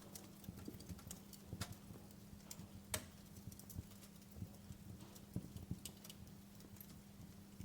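Wood fire crackling in a fireplace: faint, irregular small pops and snaps over a low rumble, with one sharper pop about three seconds in. A faint steady hum runs underneath.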